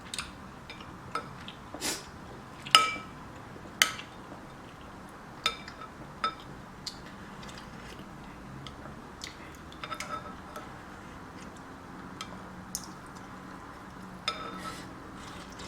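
Spoon clinking against a soup bowl while eating soup: a dozen or so scattered light clinks, each with a brief ring, the loudest about three and four seconds in.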